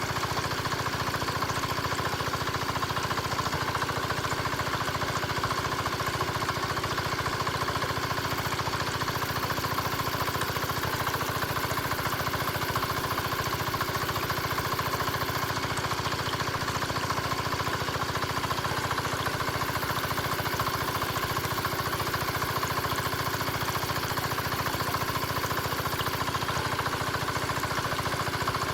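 Small motor of a miniature engine-driven water pump model running steadily, a fast even rattle over a constant hum.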